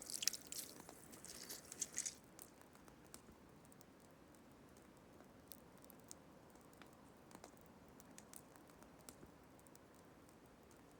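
Faint wet handling of fish during preparation: a brief splashy rush of water in the first two seconds, then soft scattered clicks and squelches.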